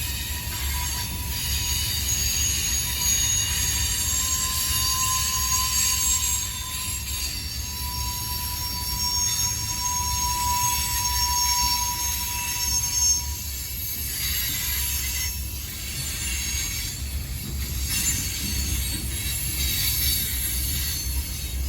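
A train rolling past with its steel wheels squealing on the rails: several high-pitched squeal tones sound over a low rumble, and a lower squeal tone dies away a little past halfway.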